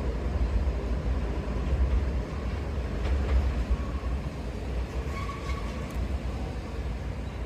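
Enoden electric train running away along the track, its low rumble slowly fading, with a faint click from the wheels about three seconds in.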